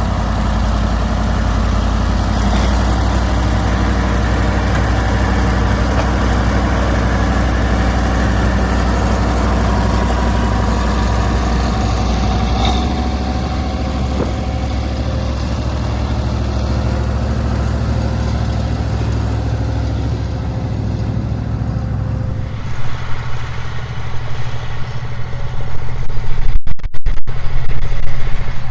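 Massey Ferguson tractor's Perkins V8 diesel engine running steadily. About three quarters of the way through the sound turns uneven and gusty, loudest near the end.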